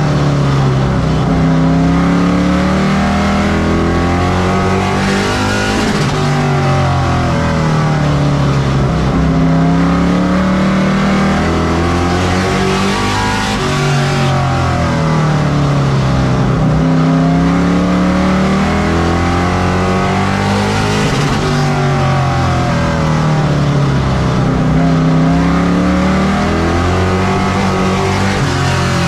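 Pro Truck race truck engine at racing speed, climbing in pitch as it accelerates down each straightaway and dropping sharply as the driver lifts for the turn, in a cycle that repeats about every seven to eight seconds.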